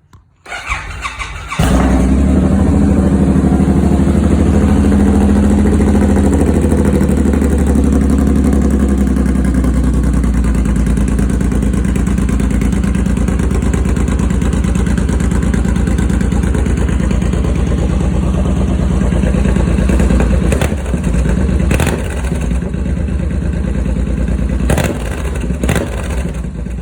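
2006 Suzuki M109R's V-twin engine with a full 2-into-1 exhaust, cold-started: the starter cranks for about a second, then the engine catches and idles loudly and steadily. It eases slightly in level near the end.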